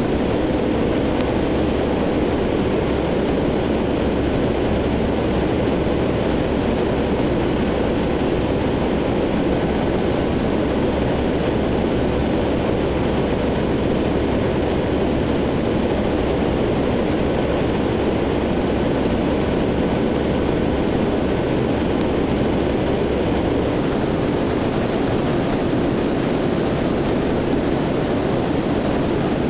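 Drone of a C-130 Hercules's four Allison T56 turboprop engines, heard from aboard the aircraft in flight: a steady, loud propeller and engine rush. Its lowest rumble drops away near the end.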